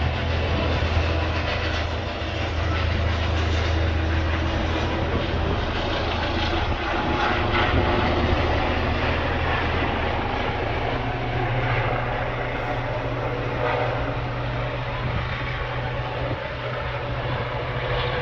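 Medical helicopter's rotor and turbine running loudly and steadily. The deep low drone changes about ten seconds in, giving way to a slightly higher low hum.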